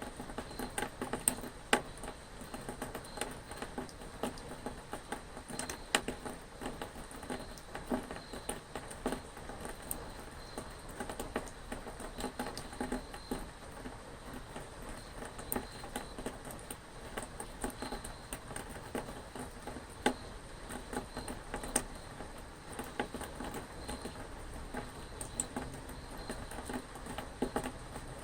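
Rain falling, with dense irregular drops pattering and ticking close by, a few sharper louder drips now and then, over a faint steady high-pitched hum.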